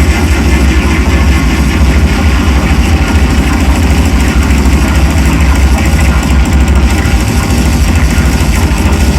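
Loud, dense drone noise music played live: a steady wall of distorted electronic noise over a heavy low rumble, with no beat or pause.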